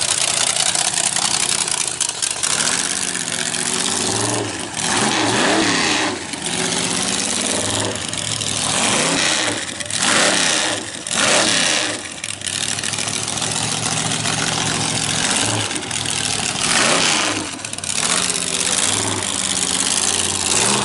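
Altered roadster drag car's 427 V8 engine idling and being revved again and again in short blips, the pitch rising and falling with each rev.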